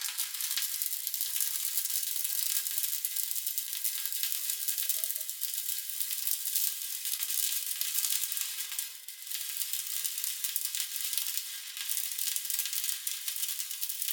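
Stick (SMAW) welding arc burning steadily, a continuous crackling sizzle as an electrode runs a bead on steel, with a brief drop in level about nine seconds in.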